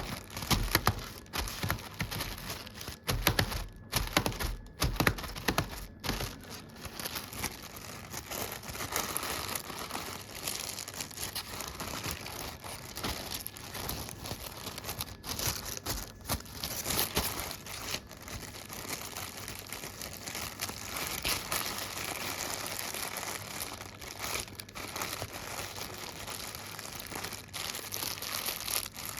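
A few dull knocks in the first several seconds, then continuous crinkling and crackling of material being crumpled.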